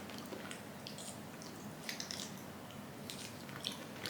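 Faint wet chewing of raw chicken: scattered soft mouth clicks and squishes.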